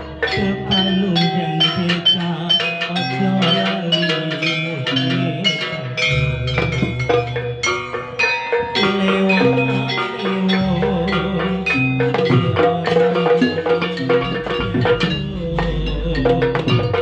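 Live instrumental music from a percussion ensemble: quick struck notes on xylophone-like mallet instruments and wood-block-like hits over drums and deep bass notes.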